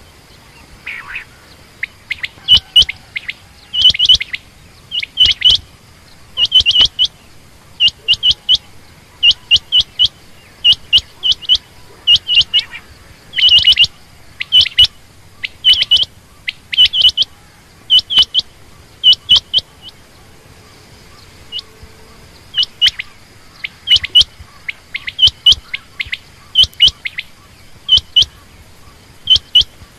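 Quail calling: short sharp notes in quick groups of two or three, repeated about once a second, with a pause of about two seconds past the middle.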